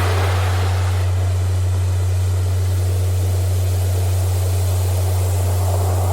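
Steady low electronic tone, a frequency-therapy tone, held over recorded ocean surf: the wash of one wave fades out in the first second and another swells in near the end.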